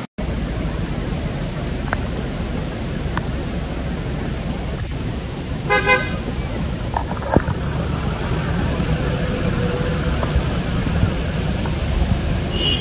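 Heavy rain falling on a wet road, a steady hiss, with one short car horn toot about six seconds in.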